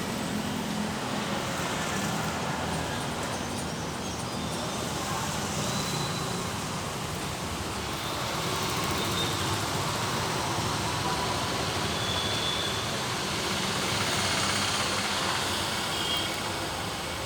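Road traffic passing in heavy rain: a steady wash of vehicle noise and hiss, swelling a little about nine and fourteen seconds in.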